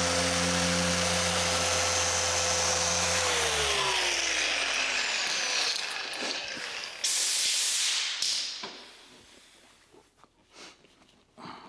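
Orbital paint polisher running steadily, then switched off about three seconds in, its pitch falling as it spins down. About seven seconds in comes a brief hiss, followed by faint handling clicks.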